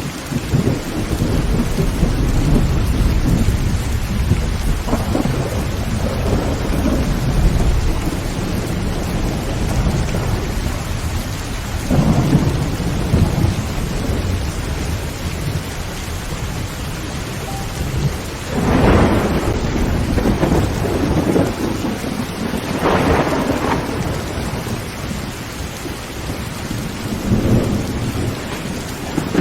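Heavy rain pattering steadily on a tin roof under constant low rolling thunder, with louder thunder cracks about twelve seconds in and twice more later, around nineteen and twenty-three seconds.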